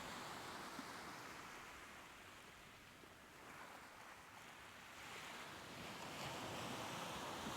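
Soft ocean surf washing in and out: a steady hiss of breaking water that ebbs away around the middle and swells again with the next wave.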